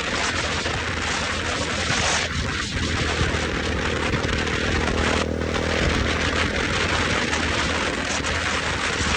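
Motorcycle engine running steadily under way, with a constant rush of wind noise over it.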